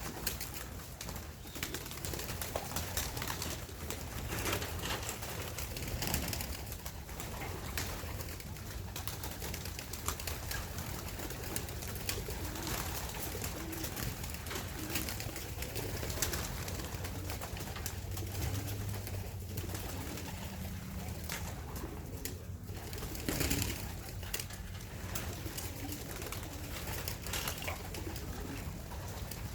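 Racing pigeons cooing in and around the loft, low wavering calls going on throughout, with a few short sharp knocks or wing flaps scattered among them.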